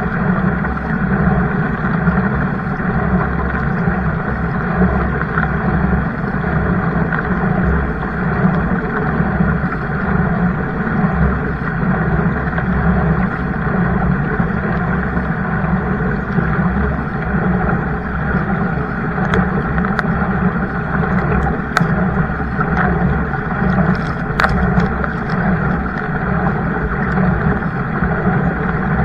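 Steady rushing noise of water and wind around a kayak, with a few sharp clicks between about nineteen and twenty-five seconds in.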